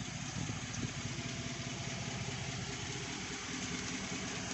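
A vehicle engine idling steadily, with an even low pulsing.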